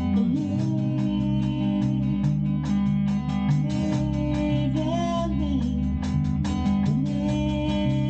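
A rock band playing an instrumental passage: guitar over a bass line that steps between held notes, with a steady beat and a few sliding notes, one about five seconds in.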